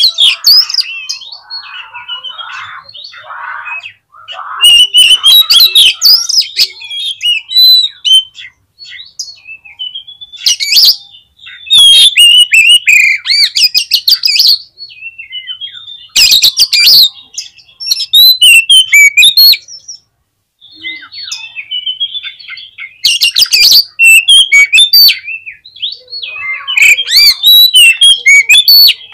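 Oriental magpie-robin (kacer) singing in loud bursts of whistled notes and rapid, harsh chattering strokes, each phrase lasting one to two and a half seconds with short pauses between. This is the excited, combative song of a fired-up male.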